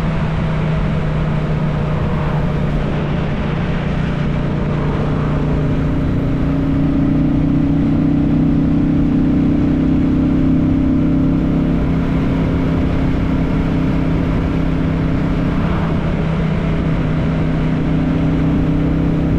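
Royal Enfield Classic 350's single-cylinder engine cruising at a steady speed, its note running under the rush of wind. The engine note strengthens about six seconds in and eases briefly near the end.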